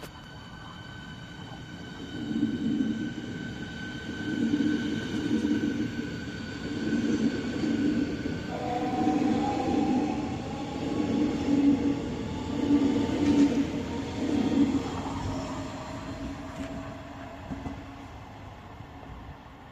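S-Bahn Berlin electric train running through the station, with a rhythmic thumping of wheels over rail joints about once a second. About eight seconds in, a whine starts and slowly rises in pitch, and the sound then fades.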